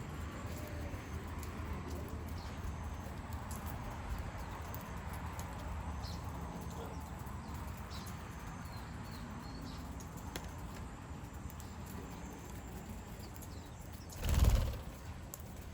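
Garden birds: faint, scattered short chirps over a low steady rumble, and near the end a brief loud whoosh of wings flapping close by.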